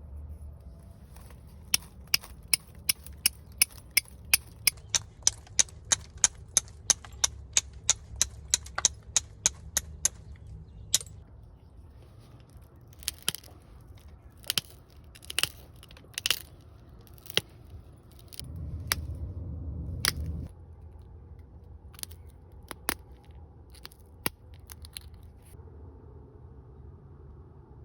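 Stone being knapped into a small arrowhead: a quick, regular run of sharp clicks, about two to three a second, as flakes snap off the edge, then sparser clicks. About two-thirds of the way through comes a two-second scraping rub, as when the edge is abraded.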